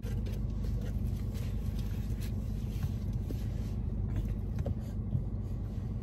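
Car engine idling, a steady low hum heard inside the cabin of the parked car, with a few faint clicks over it.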